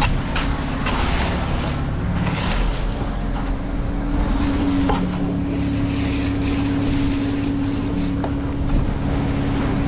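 Heavy equipment engine running steadily at a constant speed, with a few short scrapes and knocks on top.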